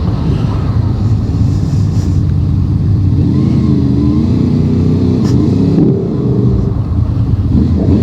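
Motorcycle engine running while riding along, with its pitch rising and falling a few times around the middle as the revs change.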